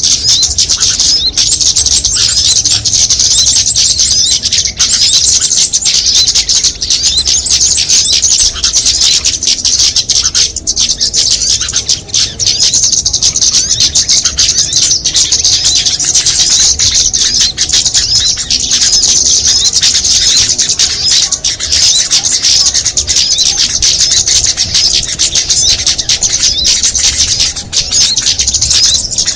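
Loud, dense chorus of many small songbirds chattering and chirping at once, a mixed bird-lure (pikat) recording used to draw small birds in. The high twittering runs on without a break.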